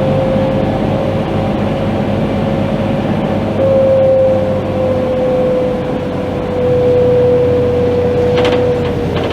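Scania K310IB diesel bus running, with engine and road rumble under a steady whine that slowly drops in pitch. A few faint clicks come near the end.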